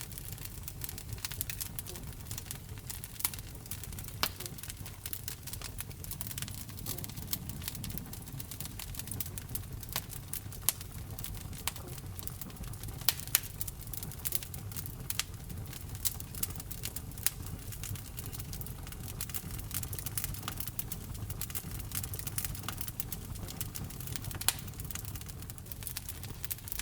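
Wood fire burning in a fireplace: a low rumble of flames under constant small crackles, with sharper pops here and there.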